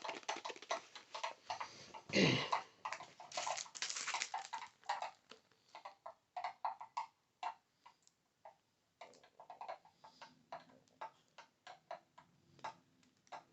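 ASMR tapping on cards and small items: quick, irregular light taps, dense at first, then sparser with a short pause about halfway through.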